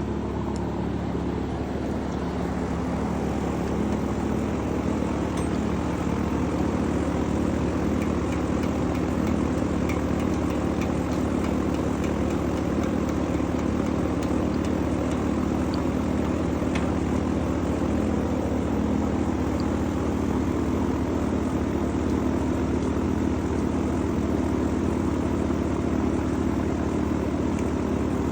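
Steady engine-like drone holding one pitch throughout, with a few faint clicks.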